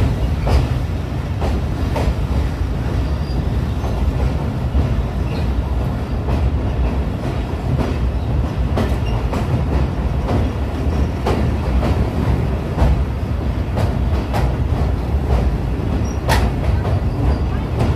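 Awam Express passenger train running on the track: a steady low rumble with irregular clacks and knocks of the wheels over the rails, one sharper knock near the end.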